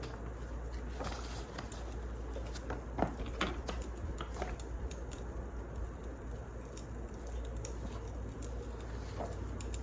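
Wood fire crackling, with scattered sharp pops over a steady low rumble; the loudest pops come about three seconds in.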